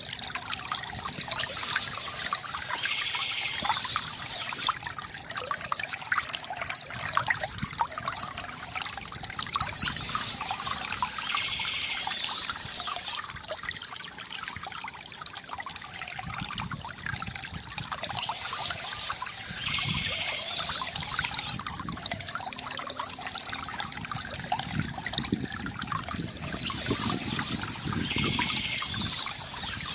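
A stream of water flowing and trickling steadily. A bird sings a phrase of about three seconds four times, about every eight or nine seconds, over the water.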